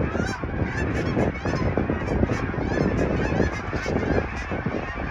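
A large flock of geese honking, many calls overlapping into a continuous clamour.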